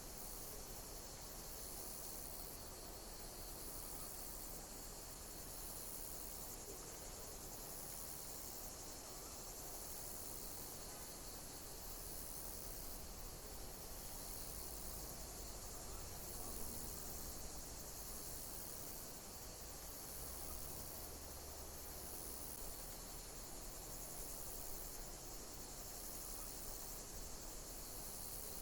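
Insects chirping high-pitched and continuously in a pulsing rhythm that repeats about every two seconds, over a steady hiss.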